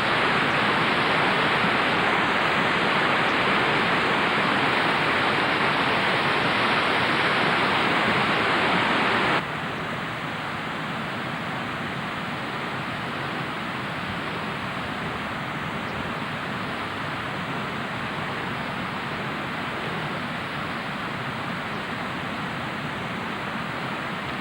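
Steady rushing noise with no pitch, dropping suddenly to a lower level about nine seconds in and running on evenly.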